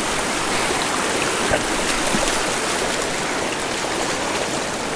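Flood-diverted mountain creek rushing steadily, a loud even hiss of running water.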